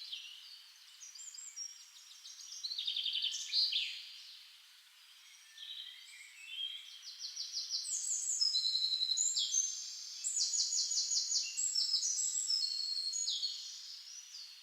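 Several songbirds singing over one another, in quick chirps and rapid trilled phrases that grow louder and denser in the second half.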